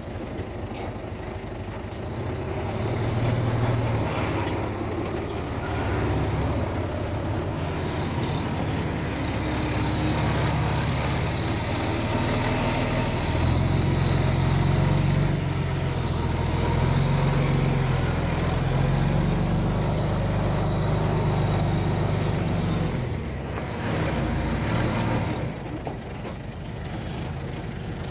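Diesel engine of heavy earthmoving equipment working, its revs swelling and easing several times under load, with a wavering high squeal coming and going. A short hiss sounds near the end.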